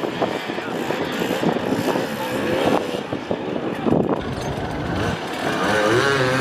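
Enduro dirt bike engines revving hard off-road, the pitch rising and falling repeatedly with the throttle.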